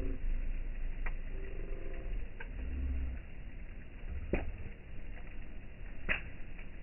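Campfire burning with a low rumble and a few sharp wood pops, the loudest about four and six seconds in.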